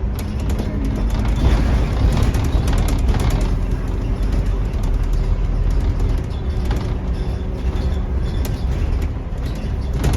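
Scania N230UD double-decker bus, its five-cylinder diesel running steadily under way, heard from on board with many small rattles from the body and fittings.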